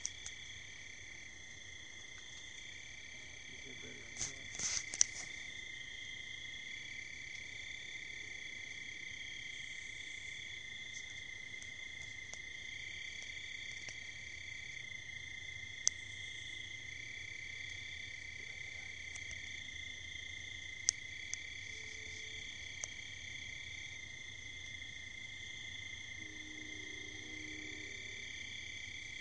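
Night-time insect chorus: several layers of steady, high trilling that run on unbroken. A short cluster of soft knocks about four to five seconds in, and a few sharp clicks later.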